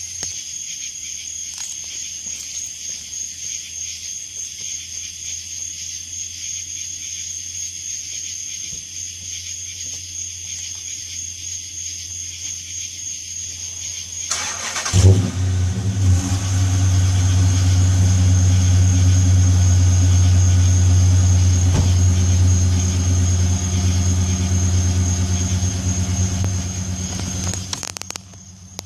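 A 2010 Dodge Charger R/T's 5.7-litre Hemi V8 with its mufflers removed cold-starting: about halfway in it cranks and fires with a loud burst, then settles into a loud, steady idle. Near the end the sound cuts off sharply.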